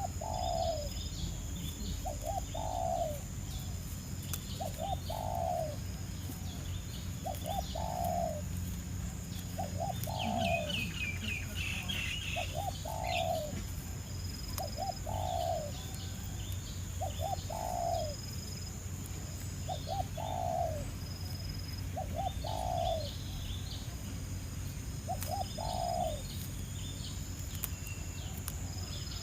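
A dove cooing the same short phrase again and again, about every two and a half seconds: two quick notes, then a longer falling one. High chirps of small birds sound above it, with a brief flurry of chirping about ten seconds in.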